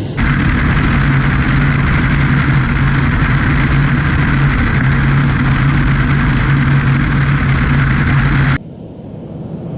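Air Tractor 602 crop-spraying plane's turboprop engine running at steady power: a constant low propeller drone with a strong hiss over it. It cuts off abruptly near the end, leaving a much quieter rumble.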